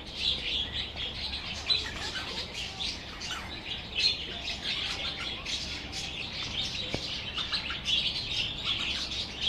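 A flock of budgerigars and parakeets chattering, with many overlapping high chirps and warbles that keep up without a break.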